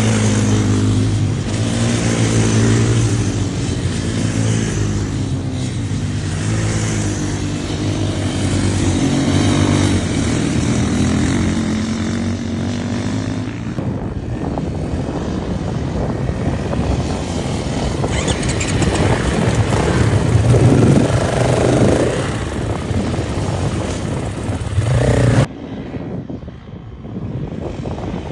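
Motocross motorcycle engines running under throttle, the engine note rising and falling. The sound changes sharply about halfway through and drops off abruptly near the end.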